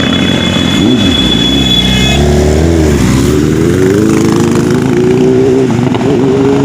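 Sport motorcycle engine being ridden hard, its pitch dropping and climbing several times as the rider rolls off and gets back on the throttle, then holding steadier and slowly rising. A thin, high steady whine sits over it for about the first two seconds.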